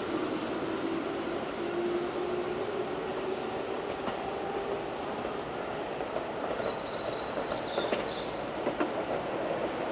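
Keihan 2400 series commuter train pulling away, with a steady running noise and a faint motor whine that rises slightly in pitch over the first few seconds. A few wheel clicks from the rail joints come near the end.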